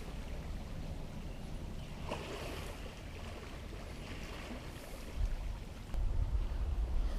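River water flowing steadily, with wind gusting on the microphone as a low rumble from about five seconds in.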